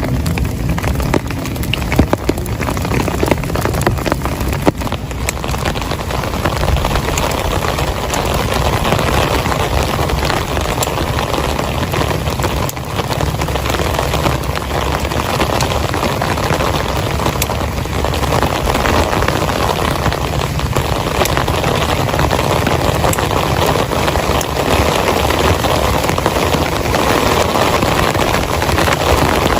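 Heavy rain falling steadily, with many individual drops striking close by. The downpour grows a little denser about six seconds in.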